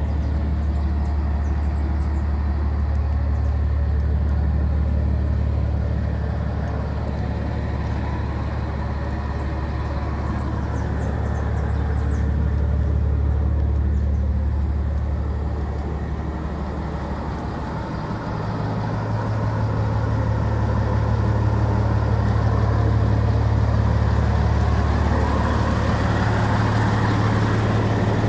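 Scania 111S truck's six-cylinder diesel engine running steadily with a deep drone; about eighteen seconds in the engine note dips briefly, then steps up in pitch and holds higher.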